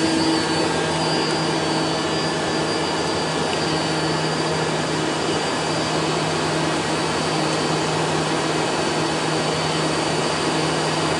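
Steady cabin noise of a Hawker 800 business jet in flight: an even rushing of airflow with a low hum from its rear-mounted Garrett TFE731 turbofans. A humming tone fades out about half a second in.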